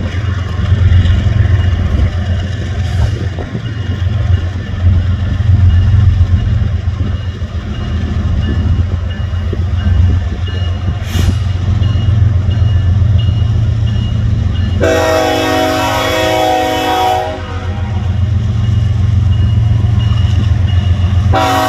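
Diesel locomotives of a loaded BNSF freight train running with a heavy, steady low rumble. About fifteen seconds in, the locomotive air horn sounds a chord for about two and a half seconds, and it blows again just before the end.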